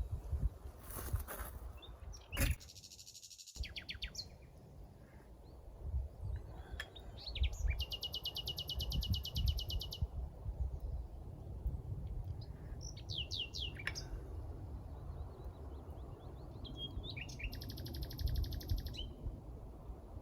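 Wild songbirds calling: scattered high chirps and two long, rapid trills of evenly repeated notes, one about eight seconds in and one near the end, over a low rumbling background.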